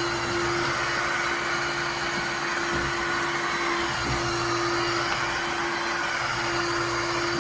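Shark HydroVac MessMaster cordless wet-dry vacuum running steadily: an even rushing noise with one constant low tone held throughout.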